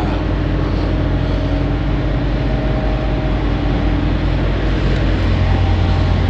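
Semi truck's diesel engine running, heard from inside the cab as a steady low rumble; a deeper hum grows stronger about five seconds in.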